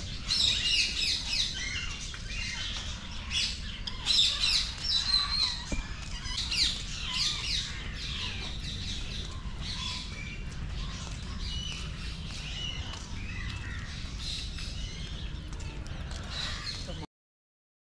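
Many birds chirping and squawking over one another, a dense flock chorus, over a steady low rumble. It all cuts off suddenly near the end.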